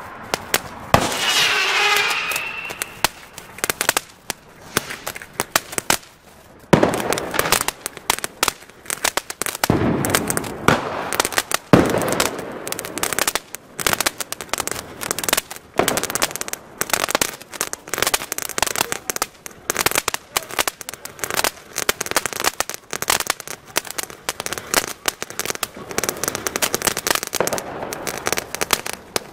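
Ground fountain firework spraying sparks with a dense, irregular crackle. Sharp firecracker bangs go off among it, the loudest a few at a time about 7 to 16 seconds in.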